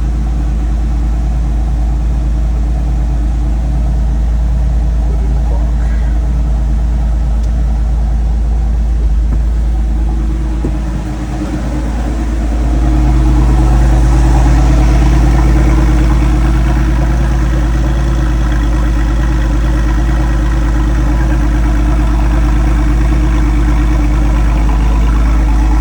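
Porsche 993's air-cooled flat-six running at idle from a cold start. Partway through the sound dips briefly, then comes back louder and holds steady.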